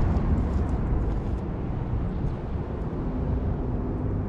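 Low, steady rumble of a train, mostly deep bass with a faint hiss above it.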